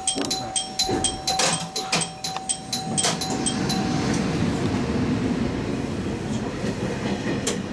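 Train running on the Tsugaru Line, heard from the cab. For the first three seconds or so a rapid, evenly repeating ringing tone (about four or five strikes a second) sounds over it and then stops, and a steady running rumble of the train takes over.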